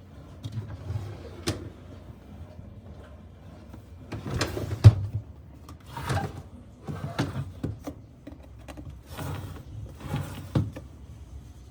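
Containers and shelves or drawers being handled in a refrigerator: a light click, then a series of about five short scrapes and knocks a second or so apart.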